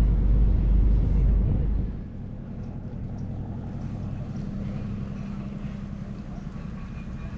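Wind buffeting the microphone with a heavy low rumble, easing about two seconds in to a steady low motor hum.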